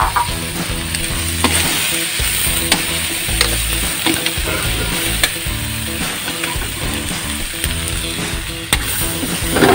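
Sliced chayote and chopped roast chicken sizzling in hot oil in a frying pan while being stir-fried, with a spatula scraping and clicking against the pan now and then.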